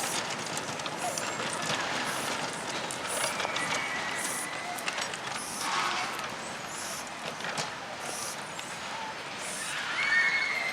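Miniature railway train running on its track, a steady clattering rumble with scattered clicks and two brief high squeals, one partway through and one near the end.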